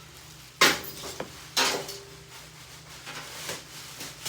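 Plastic waterproof rain pants rustling and crackling as they are pulled off, with two sharp loud rustles about half a second and a second and a half in, then fainter rustling.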